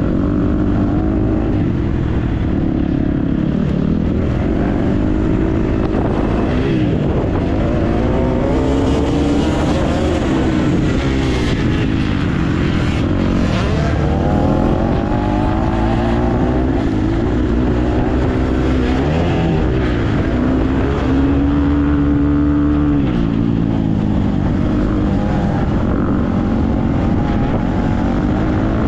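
Motocross dirt bike engine revving up and easing off again and again as it is ridden around the track, the pitch climbing and dropping with each burst of throttle, held steady for a moment a little past two-thirds of the way through.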